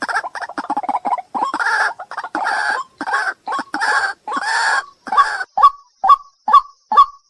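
Waterhen calling over and over: a rapid harsh chatter, then a string of longer rasping calls, then from about five seconds in short sharp calls about two a second.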